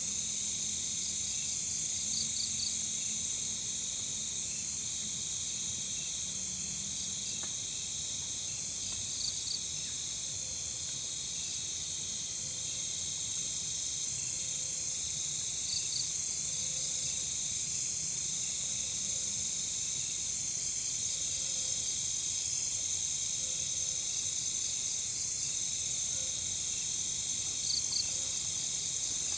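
A night-time chorus of crickets and other insects: a steady high-pitched trilling with evenly repeating chirps layered through it.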